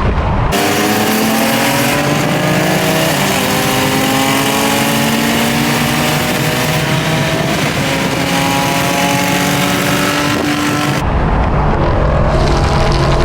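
Car engine at full throttle accelerating through the gears. Its pitch climbs, then drops at each of several upshifts, over a steady hiss of wind and tyres. It starts and stops abruptly.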